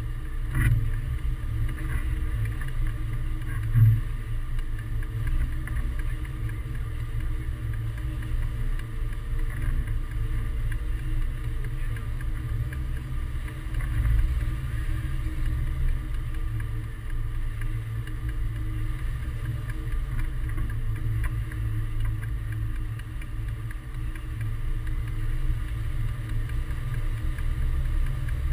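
Wind rushing and buffeting over the microphone in flight on a hang glider: a steady low rumble, with a couple of brief bumps in the first few seconds.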